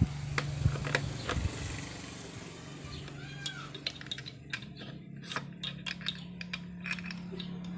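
A cat meows once, a short rising-and-falling call a little over three seconds in, over scattered sharp clicks and taps and a steady low hum.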